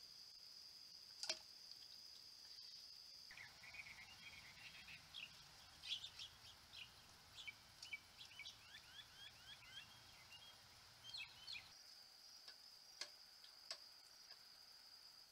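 Faint chirping of small birds at a feeder, many short calls, some in quick series, from about three seconds in until about four seconds before the end. Before and after it, a steady high thin tone with a few sharp clicks, the loudest about a second in.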